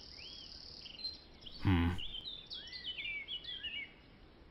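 Ambient birdsong: small birds chirping in quick, rising-and-falling calls. A brief low sound breaks in just under two seconds in.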